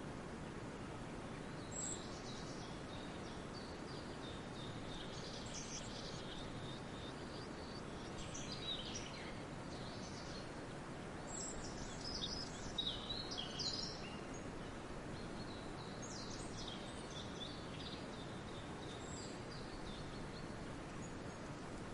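Birds chirping and trilling in short high phrases, coming in clusters with pauses between, the busiest stretch about halfway through, over a steady background hiss of the forest.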